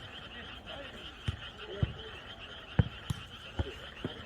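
A jokgu ball being kicked and bouncing, a sharp thump every half second to a second, over a steady high-pitched chorus of night creatures.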